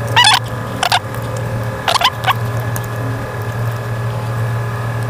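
A steady low background hum, with three short chirping calls from a bird in the first couple of seconds.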